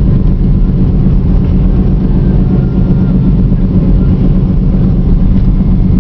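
A car driving, with a steady, loud low rumble of engine and road noise.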